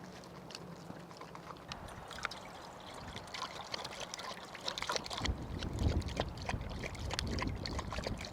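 Rain falling, with many irregular sharp drop taps and a low rumble that swells in the second half.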